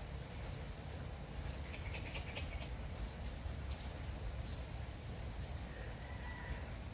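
Light rain falling steadily, with scattered drips and patter. Faint bird chirps come about two seconds in, and a short bird note near the end.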